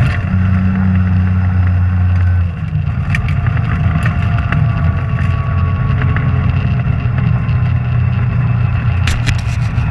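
Rally car engine running with a steady low drone that eases off about two and a half seconds in. Scattered sharp clicks and knocks sound over it.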